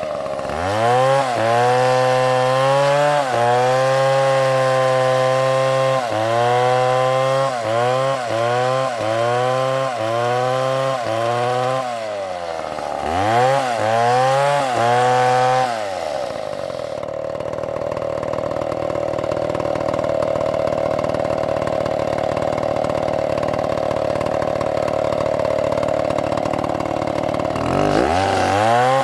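STIHL two-stroke chainsaw revving up and down in short bursts about once a second. After about 16 s it settles into a steady, lower, rougher note as the chain cuts through the wood, then revs up again near the end.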